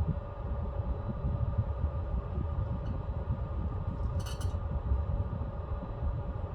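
Pellet stove running: a steady low rumble from the fire and blower with a constant hum, and a brief clink about four seconds in.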